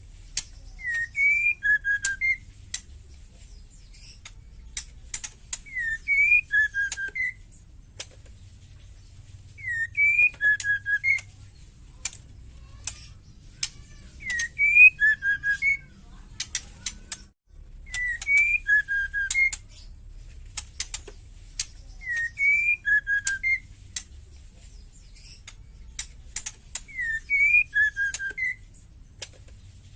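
Female white-rumped shama calling: a short whistled phrase of a few notes, repeated about every four seconds, seven times, with sharp ticking clicks scattered in between.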